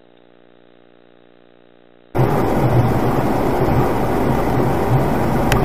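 Car dashcam audio: a faint steady engine-like hum, then about two seconds in an abrupt cut to loud, steady road and engine noise inside a moving car, with a short click near the end.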